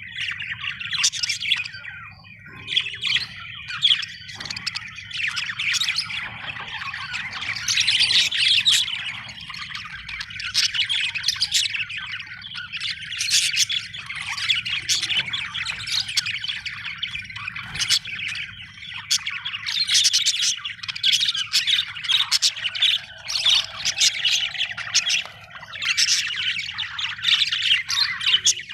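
Budgerigars chattering: rapid chirps, warbles and squawks in near-continuous bursts, over a steady low hum.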